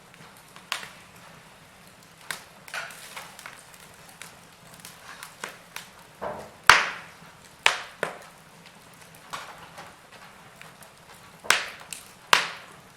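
Wood fire crackling: burning logs give off irregular sharp pops and snaps over a soft steady hiss, with a few louder pops in the second half.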